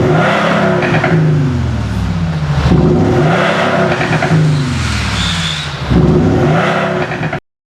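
Kia Sorento UM 2.2 diesel with an active exhaust sound system being revved, its synthetic exhaust note rising in pitch and falling back about three times. The sound cuts off suddenly near the end.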